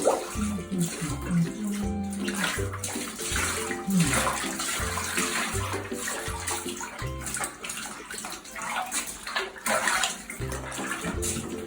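Water splashing and sloshing in a bathtub, under background music with a regular bass pulse.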